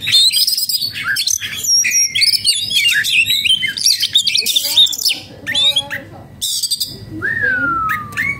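Oriental magpie-robin (kacer) singing a rapid, varied run of whistles mixed with harsh notes, then after a short lull one long falling whistle near the end. It is the song of a bird in breeding condition and agitated.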